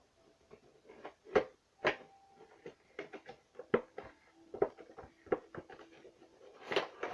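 Action-figure box being opened and its packaging handled: a string of irregular clicks, taps and rustles, with a longer rustle near the end.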